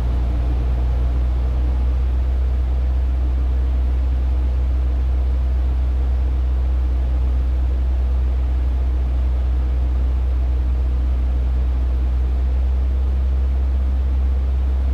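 Cessna 150's four-cylinder Continental O-200 engine and propeller droning steadily in flight, with a slight shift in its tone near the end.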